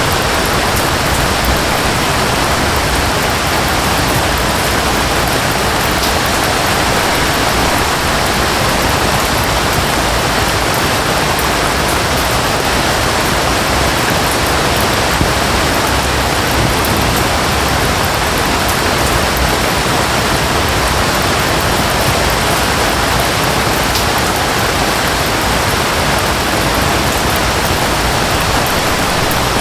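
Steady rain mixed with a waterfall: an even, unbroken rush of water.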